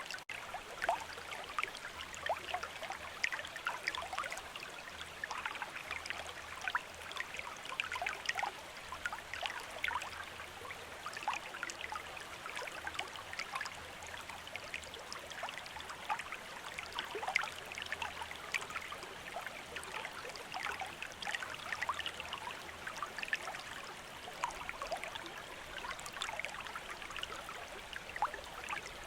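A shallow stream of running water, babbling steadily with many small splashes and trickles.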